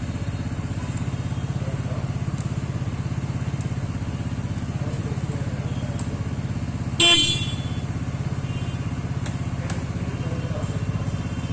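TVS Ntorq 125 scooter's single-cylinder engine idling steadily with an even exhaust pulse. About seven seconds in, a short loud beep of a horn cuts across it.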